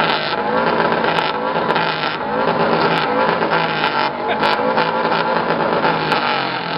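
Lexus SC300's 2JZ straight-six engine revved hard and repeatedly through a very loud exhaust, its pitch rising and falling with the throttle.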